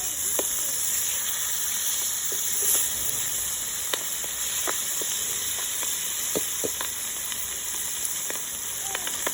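Fish frying in hot oil: a steady sizzle with scattered crackles and pops.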